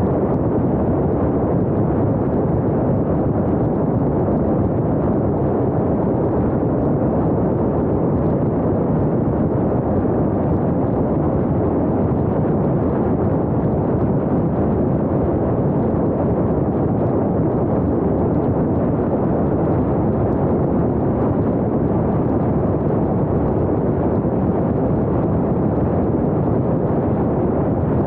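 Steady wind rumble and road noise of a moving vehicle, with no change in level.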